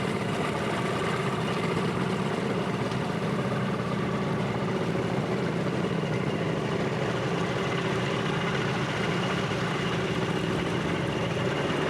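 A Zodiac raft's outboard motor running steadily under way, its even hum mixed with a steady rush of noise.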